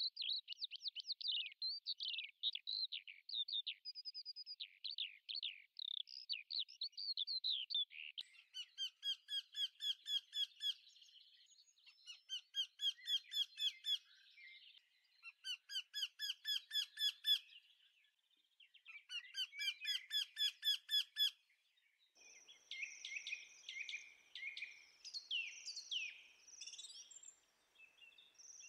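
Birds singing. Varied high chirps give way, about eight seconds in, to a run of fast trills of several chirps a second, each trill lasting a couple of seconds. Denser chirping of a different kind follows in the last few seconds.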